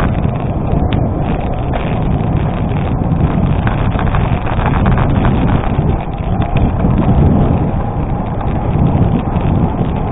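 Gravel bike riding on an unpaved road: wind rushing over the microphone with tyres crunching over loose gravel, a steady noise full of small crackles.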